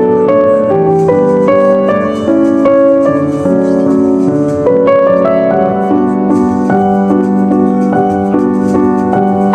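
Background piano music: a steady run of sustained notes.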